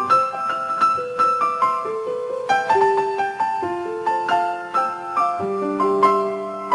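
Solo piano music: a gentle melody of single notes over soft chords, a few notes a second.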